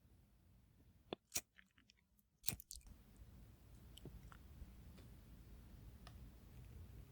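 Crackling wood fire: a few sharp pops about a second in and again near the middle, then faint scattered crackles over a low steady hum.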